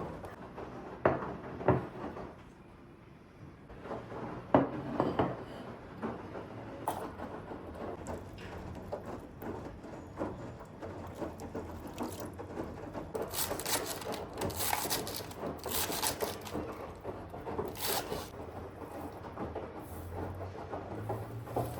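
Objects being handled: a few sharp knocks in the first five seconds, then repeated scraping and rustling.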